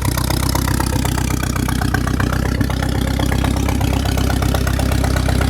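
Mercruiser 3.0-litre 140 hp four-cylinder marine engine running steadily at wide-open throttle. It runs smoothly, without skipping, spitting or sputtering.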